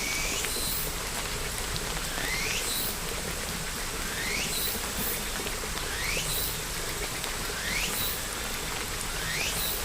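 Steady rain falling, an even hiss. Over it, a short rising chirp repeats about every two seconds, six times in all.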